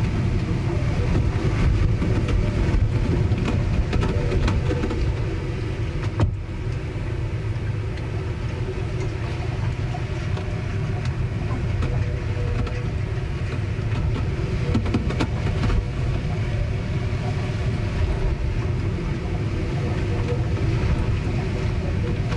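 Storm noise aboard a ship: a steady, heavy low rumble of wind and water, with a few short knocks from the vessel, the clearest about six seconds in.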